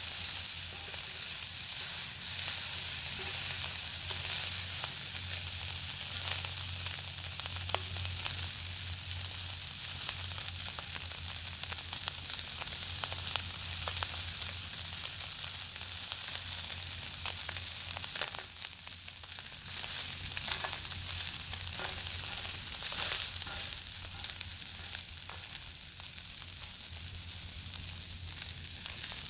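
Bacon frying over an open fire: a steady sizzle with frequent small pops and crackles, and a low steady rumble underneath.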